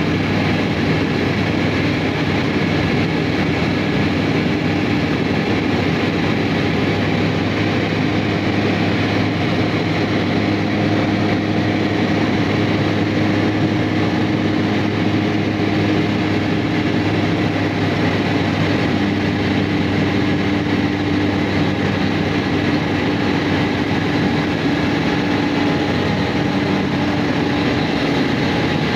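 Airliner cabin noise in flight: the aircraft's engines droning steadily, several steady hum tones over a broad rush, unchanging throughout.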